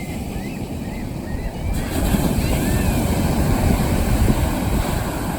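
Strong wind buffeting the microphone over heavy surf breaking on the beach, growing louder about two seconds in. Short high chirps come now and then through the first three seconds.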